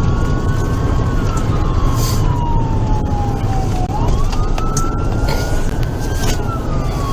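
Police car siren on a slow wail, its pitch rising and falling over a few seconds at a time, over a heavy steady rumble of engine and road noise from the pursuing car at speed.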